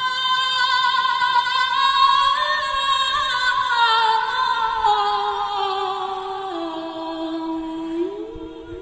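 Wordless female singing in long held notes that glide slowly downward over a lower sustained note, fading away toward the end.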